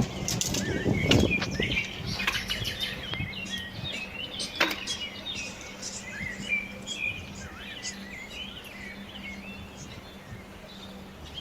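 Small birds chirping and singing throughout, with a cluster of knocks and clatter in the first two seconds and one sharp knock about four and a half seconds in, over a faint steady low hum.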